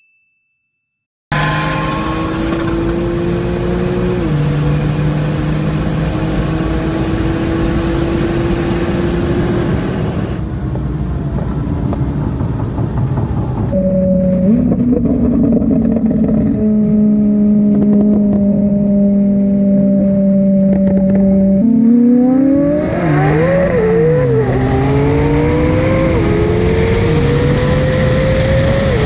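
After a second of silence, a tuned Porsche 911 Turbo at full throttle above 110 mph, heard from inside the cabin, its engine note climbing slowly with an upshift about four seconds in. Then a McLaren 720S's twin-turbo V8, heard from right over its engine cover, holds a steady cruising note before going to full throttle about two-thirds of the way through, revs climbing through a run of quick upshifts.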